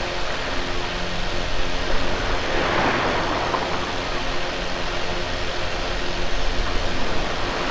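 Steady rushing noise, such as wind or moving water, swelling briefly about three seconds in.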